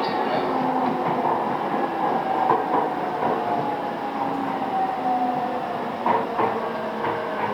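Cabin running sound of a JR East E217 series EMU motor car before its refurbishment: wheels on rail with clickety-clack knocks over rail joints, and the traction motor whine slowly falling in pitch as the train slows.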